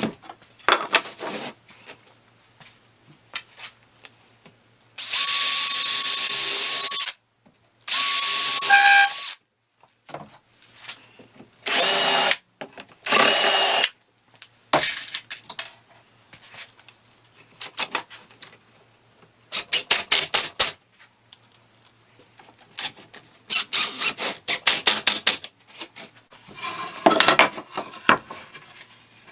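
Power drill driving screws into wood in several short runs, its motor whine starting and stopping abruptly, with stretches of rapid clicking in between.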